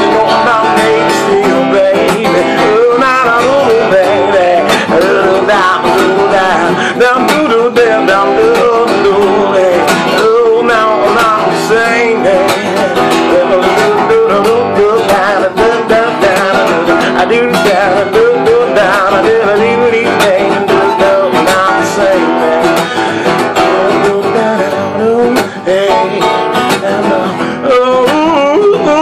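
Acoustic guitar music: an instrumental passage of a song, played steadily and without sung words.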